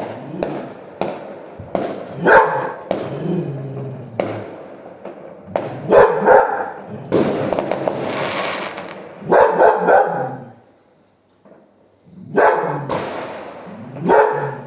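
A dog barking in repeated bursts, mixed with sharp crackling pops of fireworks. It goes briefly quiet about two-thirds of the way through.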